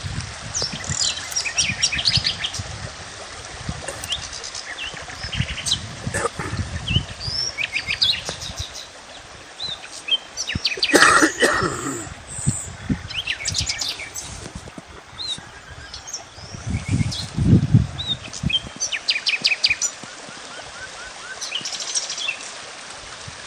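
Several small birds chirping and trilling in quick repeated notes, with short rising and falling calls throughout. A louder, lower call comes about eleven seconds in, and dull low rumbles are heard twice.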